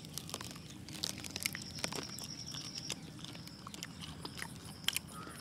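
Biting and chewing crispy roast quail: a string of irregular sharp crunches.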